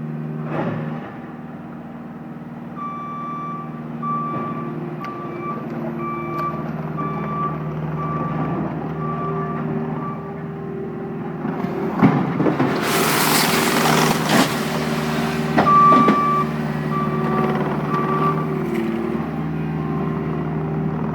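JCB 260T compact track loader's diesel engine running under load, with its reversing alarm beeping steadily, about one and a half beeps a second, for several seconds and then again later. Partway through, a loud burst of rushing noise lasts about two seconds.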